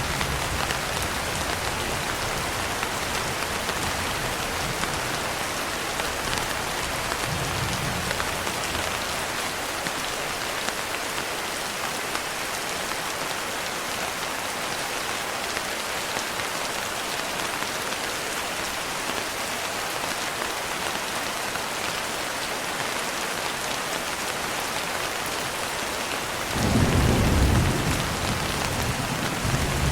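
Steady rain, with low thunder rumbling that fades away over the first several seconds and a louder rumble of thunder lasting about two seconds near the end.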